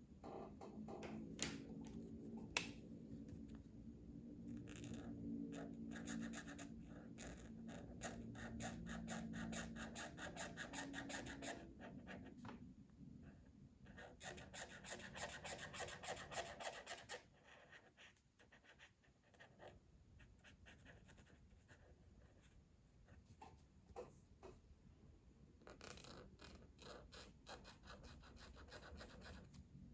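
Colouring strokes scratching on paper in quick back-and-forth runs with short pauses, quieter for a stretch after the middle. A faint low hum sits under the first part.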